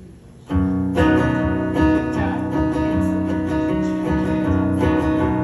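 Acoustic guitar strummed as the song's instrumental intro, starting about half a second in after a brief pause.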